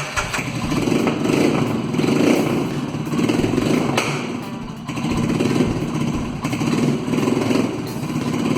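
Royal Enfield Himalayan's single-cylinder engine running through a new accessory exhaust, with a steady thumping beat that swells and eases a little.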